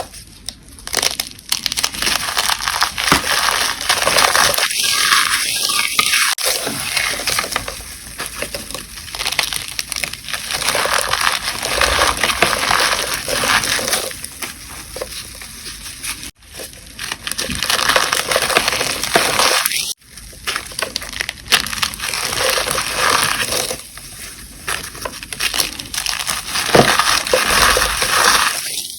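Gym chalk being crushed and crumbled: dense, crisp crunching and crackling, with a couple of abrupt short breaks.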